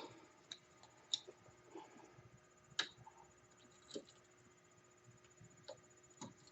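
Near silence broken by about half a dozen faint, sharp clicks and taps, irregularly spaced: small hand tools and parts being handled during ATV front-end work.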